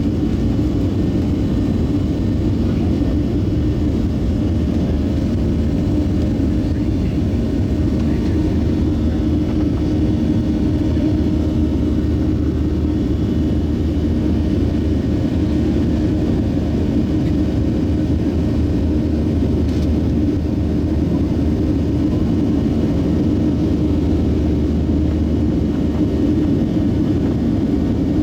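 Boeing 737-700 jet engines running with a steady low drone, level and unchanging, with a few faint steady tones in the hum.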